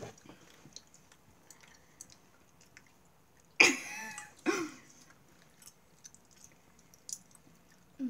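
Faint chewing and small mouth clicks of a girl eating gummy sweets. About three and a half seconds in comes a loud burst of a girl's laughter, with a shorter second burst about a second later.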